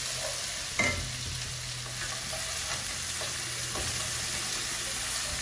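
Onion-and-spice curry base sizzling in an aluminium pot on a gas hob as a wooden spatula stirs and scrapes through it, with one sharp knock about a second in.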